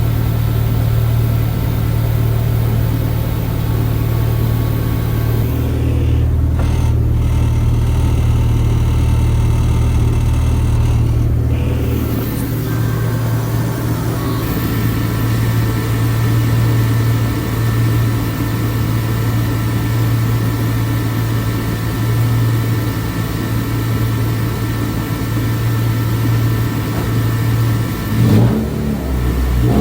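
Honda K24 2.4-litre four-cylinder engine, swapped into a Civic race car, running steadily with a few small changes in engine speed.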